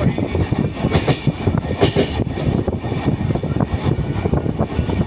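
Train running along its track: a steady rumble with dense, rapid rattling and clacking from the wheels and cars.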